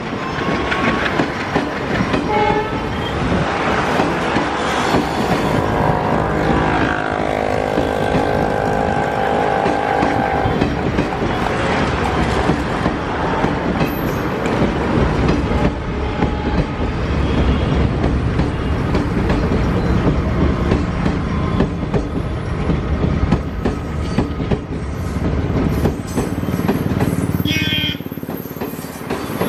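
Passenger coaches running over a steel girder railway bridge, the wheels clattering steadily over the rail joints. A steady tone sounds over the clatter for about four seconds, starting some six or seven seconds in.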